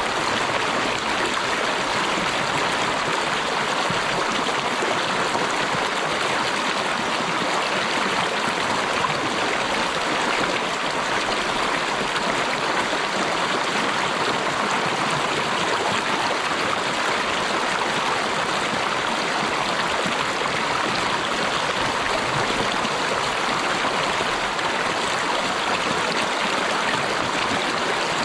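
Stream of water rushing steadily over rocks, an even hiss with no breaks or changes.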